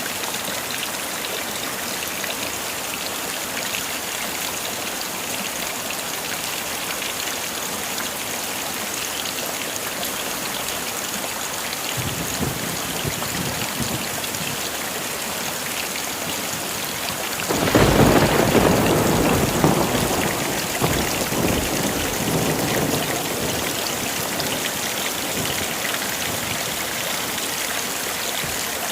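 Steady heavy rain, with a low thunder rumble building about twelve seconds in, then a loud thunderclap about eighteen seconds in that rumbles and fades over several seconds.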